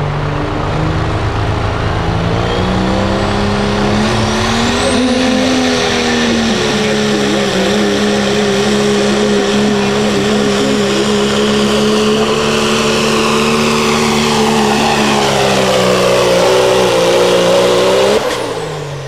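Pro street diesel pickup truck pulling the sled at full throttle. The engine's pitch climbs over the first few seconds, holds steady through most of the pull, rises again near the end and then cuts off suddenly.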